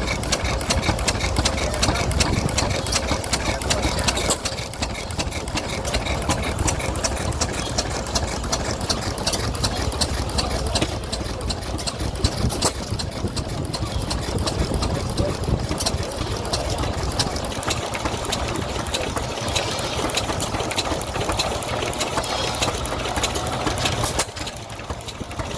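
An engine running steadily with a fast, even mechanical clatter, dipping in loudness briefly near the end.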